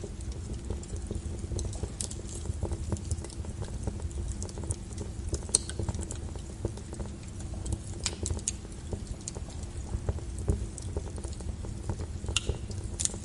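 Log fire burning in a fireplace: a steady low rumble of the flames with irregular crackles and pops, a few sharper pops about halfway through and near the end.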